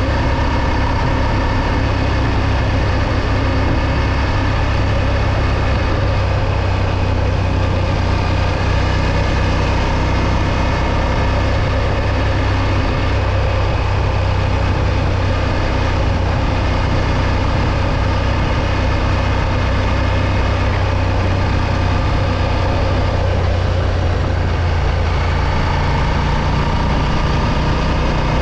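Moto Morini X-Cape 650's parallel-twin engine running steadily, its revs holding even with no clear rise or fall.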